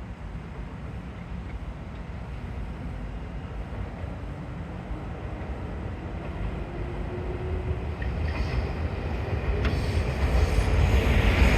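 Electric multiple-unit train, a 211 series 5000 set coupled to a 313 series 2300 set, pulling out and picking up speed. Its motors give a rising whine, it grows steadily louder, and a few clicks of wheels over rail joints come near the end.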